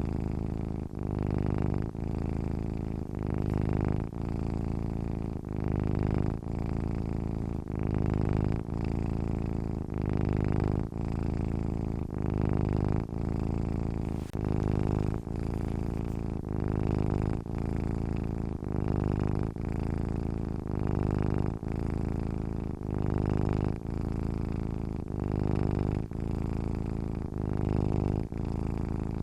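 Domestic cat purring in its sleep: a continuous low, rumbling purr that swells and eases in a steady rhythm with each breath, about once every two seconds.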